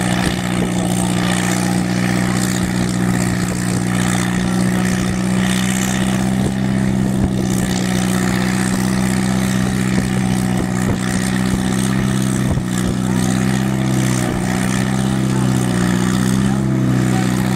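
Tractor-pull engine running at steady, held revs: one even, low engine note.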